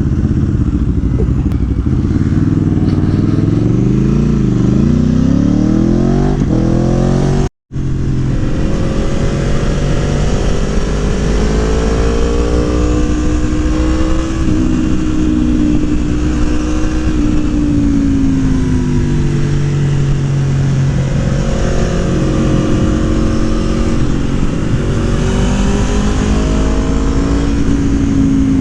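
Aprilia Tuono motorcycle engine with a Gabro Racing Stage 3 kit, heard while riding. It revs up twice in the first seconds, dipping once as if shifting, then cruises with gentle rises and falls in pitch. The sound cuts out completely for an instant about seven and a half seconds in.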